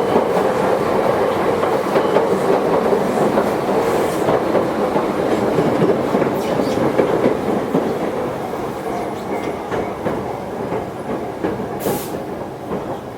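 Running sound inside a Toyohashi Railway 1800 series electric train, a former Tokyu car: steady wheel and motor noise with wheels clicking over rail joints. It grows quieter over the last few seconds as the train slows, with a short sharp hiss near the end.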